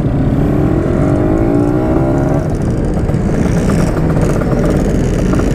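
Yamaha RX-King 135cc two-stroke single-cylinder motorcycle engine accelerating, its pitch rising for about two seconds, settling, then rising again near the end.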